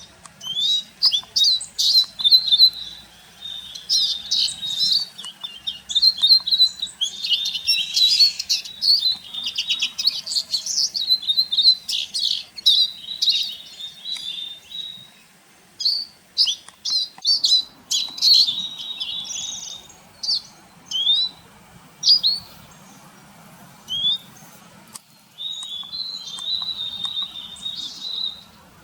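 A flock of Eurasian siskins twittering: rapid, dense chirps with short rising call notes, thinning out in the middle and picking up again near the end.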